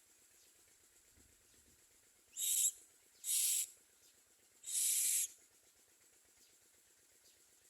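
Common myna giving three short, harsh hissing calls, the last a little longer.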